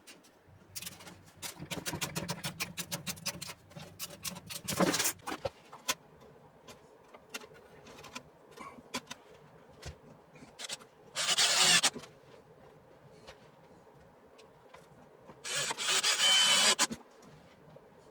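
Cutting thin wood paneling: a quick run of rasping saw strokes over a low hum for the first few seconds. Then two short, loud bursts from a power tool, each about a second long.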